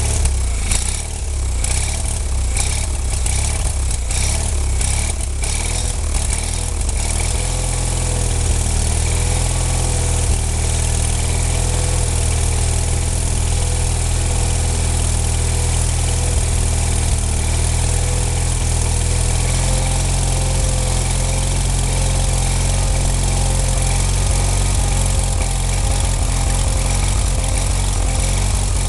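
20 HP Onan P220G twin-cylinder engine of a 1995 Wheel Horse 520-H garden tractor running steadily at idle on its first run after repairs. A series of sharp ticks comes through in the first several seconds.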